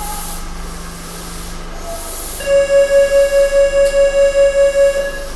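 A station departure signal on a subway platform: a rapid, evenly pulsed electronic beeping at one pitch, about four to five beeps a second, starting about halfway through and lasting a little over two seconds. It warns that the train is about to leave.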